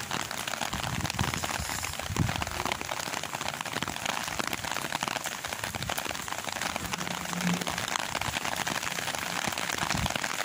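Heavy rain falling steadily, a dense patter of drops. Now and then strong wind buffets the microphone with a low rumble.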